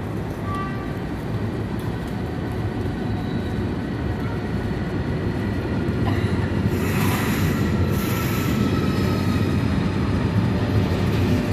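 Italo high-speed train running: a steady rumble of wheels on rail that grows slightly louder, with faint thin whining tones and a brief hiss about seven to eight and a half seconds in.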